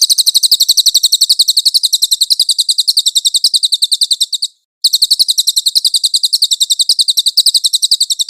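Recorded songbird giving a loud, very high, rapid trill of about ten even notes a second, in two long runs with a brief break about four and a half seconds in: a masteran tutor song for training songbirds.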